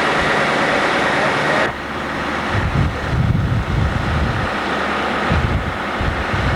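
Fire truck engine running, with a steady rushing noise that cuts off abruptly after about two seconds, followed by irregular low rumbling gusts of wind on the microphone.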